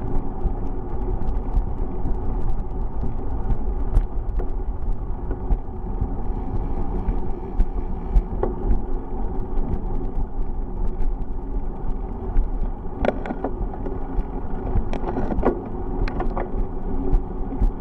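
Steady low rumble of wind and road noise while riding a bicycle, with scattered clicks and rattles and a cluster of louder clicks past the middle.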